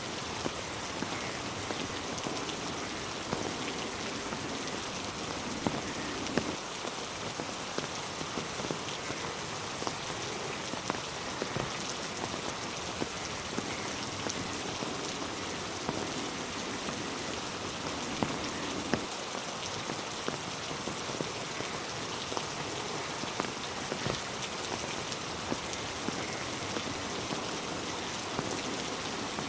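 Steady rain falling on a road and on trees, an even hiss with many individual drops pattering sharply on hard surfaces.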